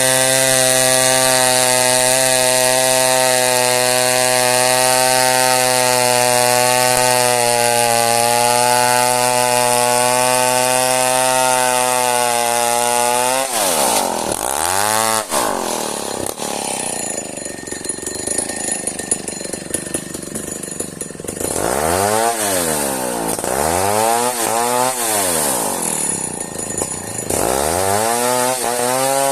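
Chainsaw cutting hard merbau timber at a steady full throttle for about the first half. Then the revs drop off and the throttle is blipped up and down several times. It settles back to full throttle near the end.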